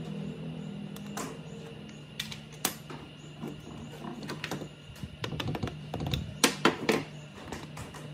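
Irregular run of small clicks and taps from hand work on parts, thickest about three-quarters of the way through, over a steady low hum.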